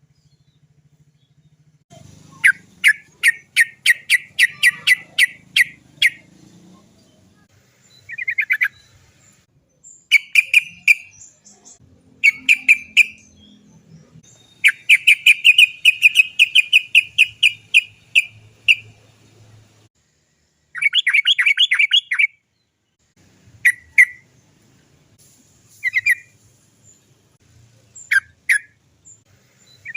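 Yellow-vented bulbul (trucukan) calling in bursts of sharp, quickly repeated 'cok cok cok' notes, some runs rolled into long, fast trills, with short pauses between the bursts.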